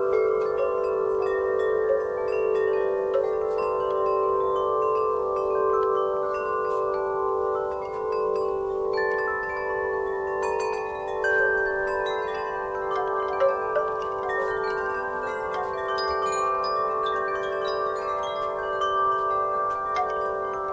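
Wind chimes swaying in a breeze, struck again and again so that many notes ring on and overlap without a pause, the lowest note wavering.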